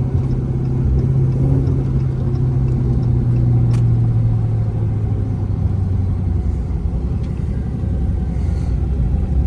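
Dodge Scat Pack Widebody's 6.4-litre HEMI V8 running at a steady low drone while driving, its pitch sinking in the second half as the revs fall. A single faint click about four seconds in.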